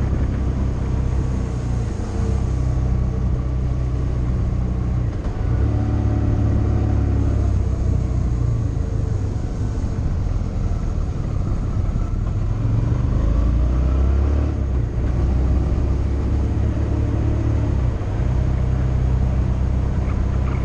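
Motorcycle engine running under way on the road. Its note shifts in pitch several times as the rider changes throttle or gear, over steady road noise.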